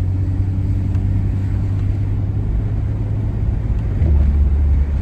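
1989 Ford Thunderbird driving on a test drive after a transmission service, with a steady low engine and road rumble. About four seconds in, the rumble drops lower in pitch and gets louder.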